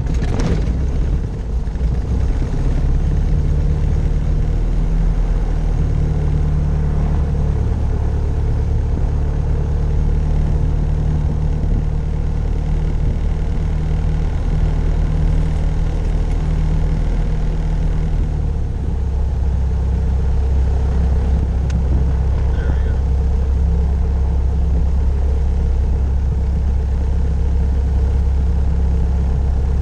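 Grumman Tiger's four-cylinder Lycoming O-360 engine and propeller running steadily just after start, at low power. Its note shifts lower and steadies about 19 seconds in.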